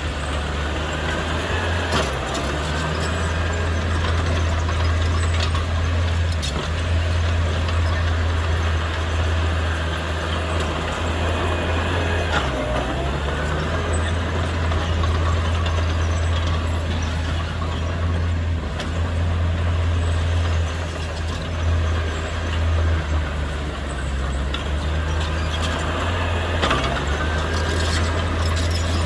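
Diesel engine of heavy earthmoving equipment running steadily, its pitch and load shifting a few times, with a few short high squeals and clanks.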